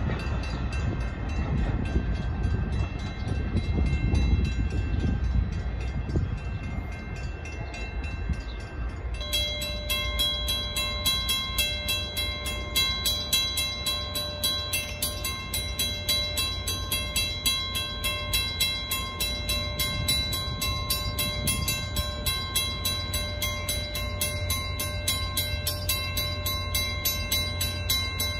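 A Metra commuter train rumbling along the tracks. About nine seconds in, the sound cuts to a railroad grade crossing's warning bell ringing in a fast steady rhythm over a low rumble.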